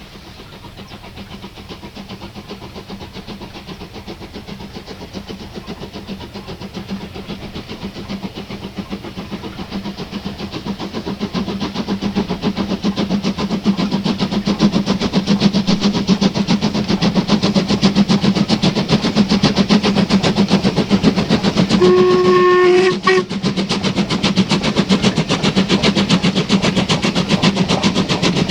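Steam locomotive approaching and working hard, its rapid exhaust beats growing steadily louder. Its whistle gives one short blast about three-quarters of the way through.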